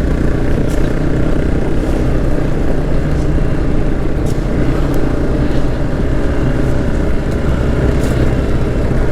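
Motorcycle engine running at a steady pace while riding across a loose, sandy riverbed, with rushing wind and tyre noise.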